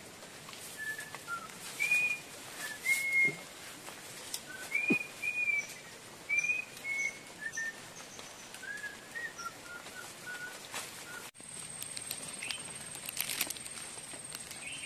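Birds calling in a string of short whistled notes, some lower and some higher, for about eleven seconds. The birdsong then stops abruptly, and a steady high-pitched whine with a few clicks takes over.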